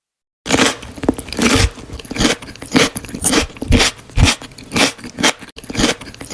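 Close-up chewing of crunchy food, starting about half a second in, with loud crunches about twice a second.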